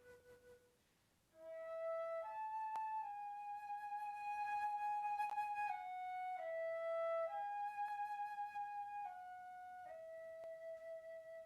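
A slow solo melody in a flute tone. A held note fades out, and after a short pause a phrase of long, steady notes steps up and down, ending on a long held note.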